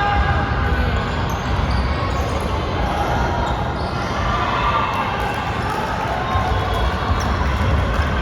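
Basketball bouncing on the court during a game, over the steady din of a gym with players and spectators.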